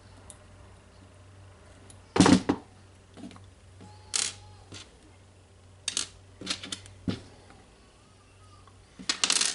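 Small metal screws and tool parts being handled and tried in a power tool's housing: a series of short clicks and clatters, the loudest about two seconds in, with a quick cluster near the end.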